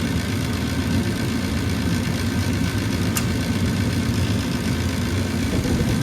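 Carrier 80% gas furnace running through its ignition sequence with the burners lit: a steady low hum from the draft inducer motor and burners. One brief faint click about three seconds in.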